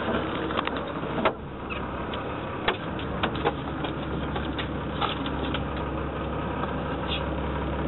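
Fishing boat's engine idling steadily, with a few sharp knocks and clicks over it.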